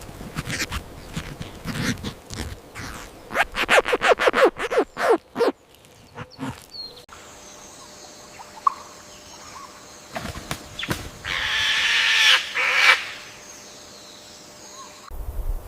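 Fowl calling: a quick rattling series of calls a few seconds in, then a separate loud, drawn-out call about eleven seconds in.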